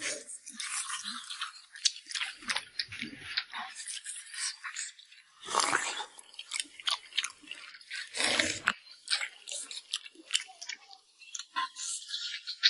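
People chewing food close to the microphone: a dense run of short mouth clicks, with a few longer, fuller chewing sounds now and then.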